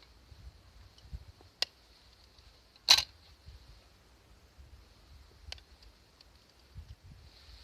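A few sharp clicks, with one louder clack about three seconds in, over a faint steady hiss.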